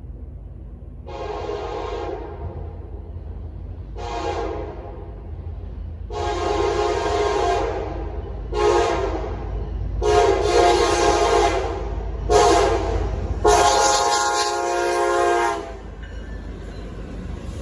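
Locomotive air horn on a CSX train sounding seven blasts, some short and some long, the last the longest, over the low rumble of the train.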